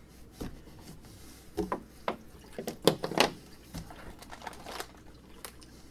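Unpacking 3D printer kit parts by hand: scattered knocks and clicks of parts being set down and packaging crinkling, loudest about three seconds in.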